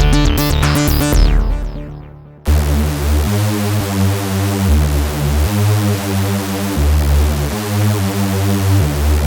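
Tone2 Electra 3 software synthesizer presets played in turn. A rhythmic patch with sharp high hits fades away, and about two and a half seconds in a new patch starts abruptly: a deep pulsing bass line in notes about a second long that step between pitches, with a steady hiss over it.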